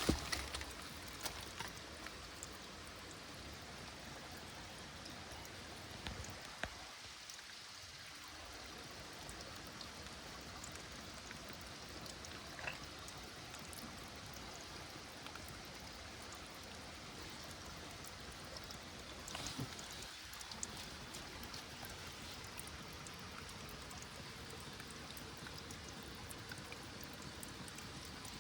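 Small stream running steadily, with a few light clicks and knocks scattered through it.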